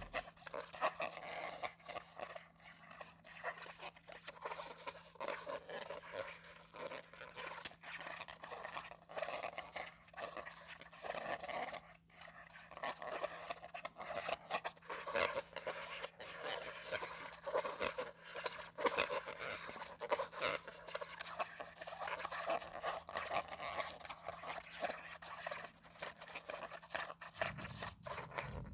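A comb's teeth scraped across a sheet of calendar paper, a continuous run of rapid scratchy strokes.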